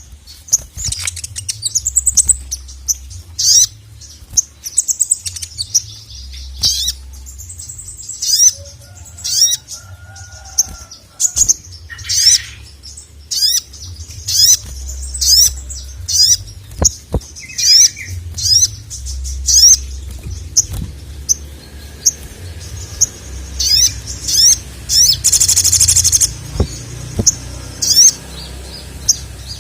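Sogok ontong (ruby-cheeked sunbird) singing hard: a long run of quick, sharp, high-pitched chirps and slurred notes, with a dense buzzing trill about 25 seconds in.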